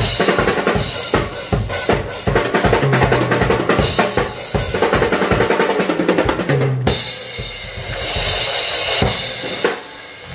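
Acoustic drum kit played solo and live, unamplified: fast beats on kick drum, snare and cymbals, turning to a cymbal-heavy stretch near the end before stopping.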